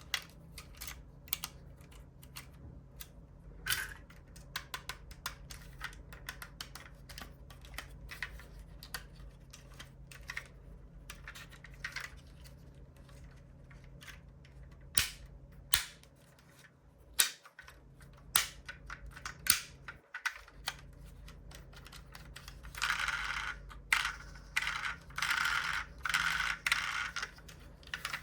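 Small sharp clicks and taps from diecast model cars being handled, doors and parts clicking, with a few louder clicks in the middle and several seconds of rustling near the end.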